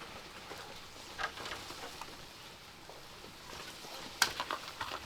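Scattered light taps and clicks over a quiet outdoor background, with one sharper click about four seconds in.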